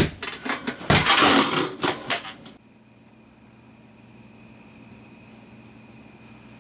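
Thumps and clattering of a staged fight for about two and a half seconds, which then cut off abruptly, leaving only a quiet steady electrical hum.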